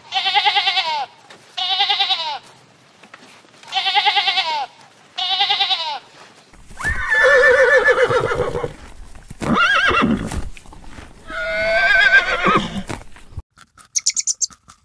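Sheep bleating four times, each bleat under a second with a wavering pitch that drops at the end. Then a horse whinnies three times, the first call the longest. Near the end comes a run of quick crunchy clicks: a rabbit chewing leafy greens.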